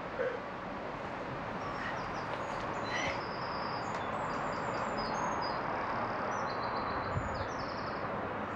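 A small bird sings a run of quick, high-pitched notes over a steady hiss of outdoor background noise.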